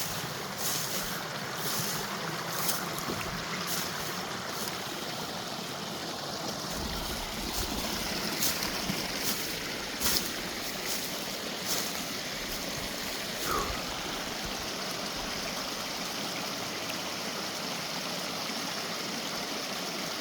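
Steady rushing of a flowing mountain creek, with scattered short clicks and snaps over the first twelve seconds or so.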